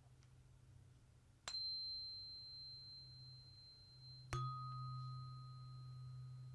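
Two tuning forks struck one after the other: a high-pitched fork about a second and a half in, then a lower one a little after four seconds. Each rings on as a single pure tone, fading slowly and overlapping the other.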